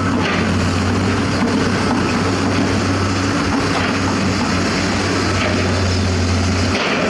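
Heavy diesel construction machinery running steadily with a deep engine hum and mechanical noise; the deepest part of the hum cuts out near the end.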